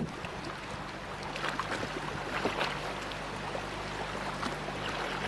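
A river raft's motor running steadily with a low hum, under the rush and splash of water against the boat.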